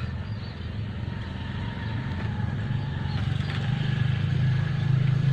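Engine of a trail-modified Honda Revo motorbike running, growing louder over the last few seconds.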